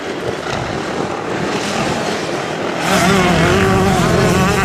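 Motocross bike engines running on the track. About three seconds in, one bike gets louder and nearer, its engine pitch wavering up and down with the throttle.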